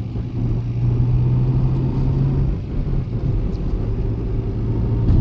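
Car interior sound while driving: a steady low engine drone over road rumble.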